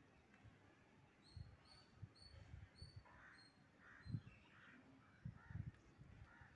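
Faint outdoor birdsong: a quick run of short, high, even chirps, followed by lower, harsher short calls, over a soft low rumble.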